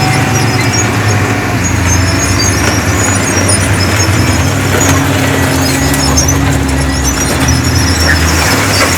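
Heavy construction machinery at work: a diesel engine running steadily under load, with scattered short high-pitched squeaks over it.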